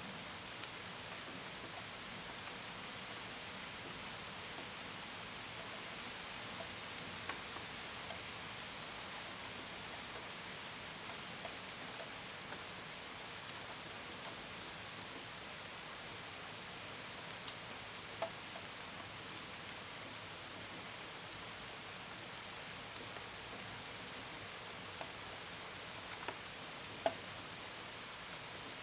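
Steady gentle rain with scattered sharp drips, the loudest about two-thirds of the way in and again near the end. Crickets chirp in a steady, high-pitched pulsing chorus behind it.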